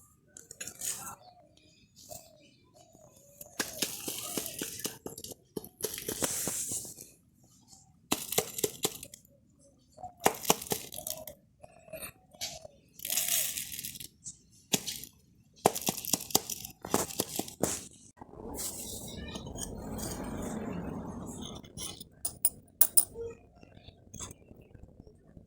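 Metal parts and hand tools clinking and knocking on a workbench while a starter motor is taken apart, with a few short stretches of hissing noise.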